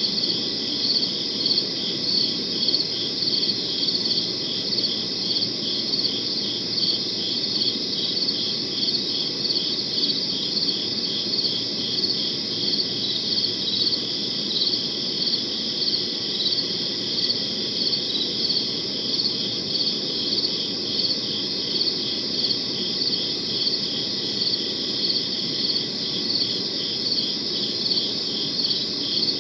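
Crickets chirping in a steady, even rhythm of about three chirps a second, over a low, steady background noise.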